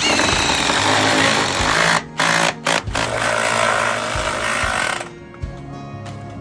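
A loud power tool running for about five seconds, cutting out briefly twice around two to three seconds in, over background music.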